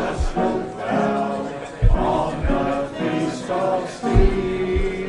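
A group of people singing together like a choir, with a few deep heartbeat thumps beneath the singing, the strongest about two seconds in and again about four seconds in.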